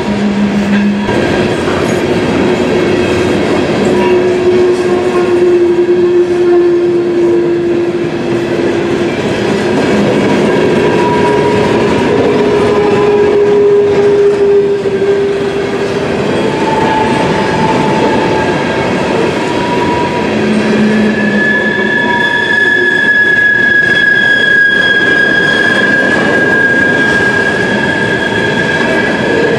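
Norfolk Southern freight train of coal hopper cars rolling past with a steady loud rolling noise from the wheels on the rail. Drawn-out wheel squeals ride over it at shifting pitches, a higher squeal holding through the last several seconds.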